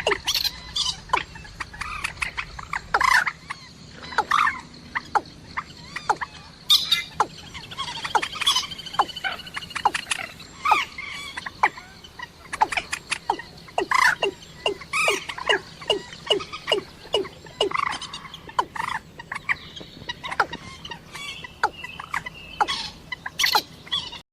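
Common moorhen and watercock calls: short, sharp notes in quick succession, some overlapping, over a faint steady hum.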